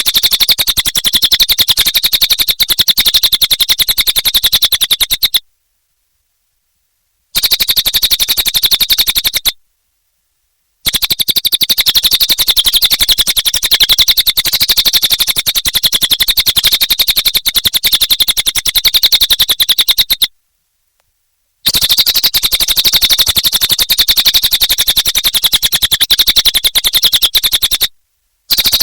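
A cililin songbird singing, a very rapid, high chattering trill delivered in long bursts of several seconds. The bursts are separated by short breaks of complete silence.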